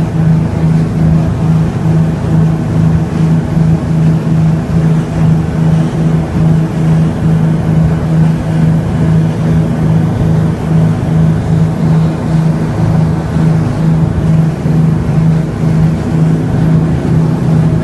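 A boat's engine running steadily, a loud low drone with a hum that pulses a few times a second.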